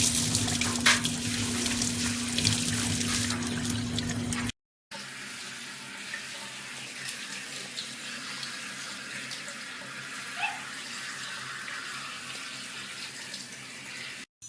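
Running water, like a tap or a sink filling, with a steady low hum in the first few seconds. The sound cuts out briefly about four and a half seconds in and returns quieter.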